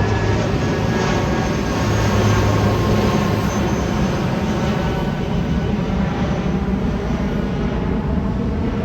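Airbus A319's twin IAE V2500 turbofan engines running at high thrust for takeoff: a loud, steady rumble with faint whining tones above it.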